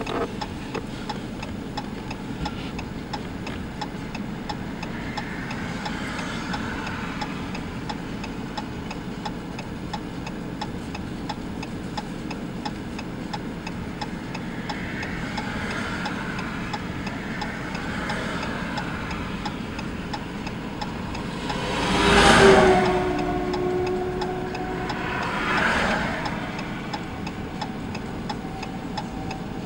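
Dodge Challenger idling steadily, heard from inside the cabin, with a faint, even ticking. Other vehicles pass by, the loudest about two-thirds of the way through and another a few seconds later.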